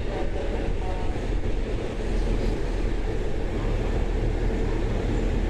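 E531-series electric train giving off a steady rumble and hum at the platform, with a faint voice mixed in.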